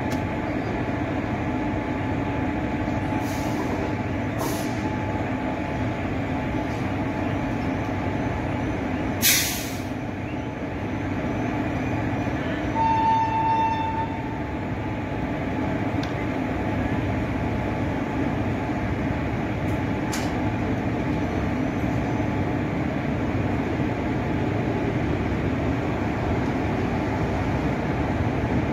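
Passenger coaches rolling slowly past on departure: a steady rumble of wheels on rails. A short sharp hiss comes about nine seconds in, and a brief high tone lasting about a second comes a few seconds later.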